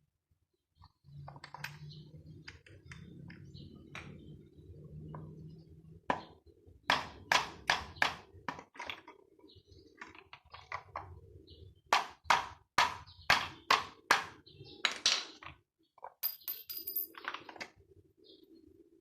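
A low hum for several seconds, then runs of sharp knocks, about two a second, with a brief high ringing tone near the end.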